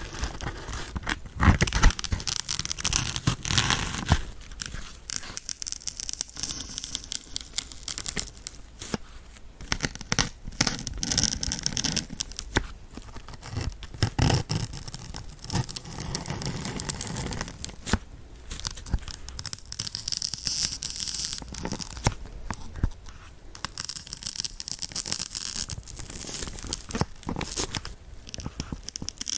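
Sewing needles being stuck into a kitchen dish sponge close to the microphone: a run of short sharp crackling pokes and scratchy rasps at an irregular pace.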